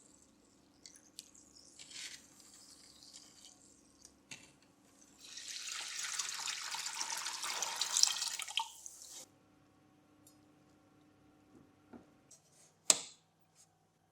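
A steady hiss of spray lasting about four seconds, amid small clicks and handling noises. It ends in one sharp, loud click near the end.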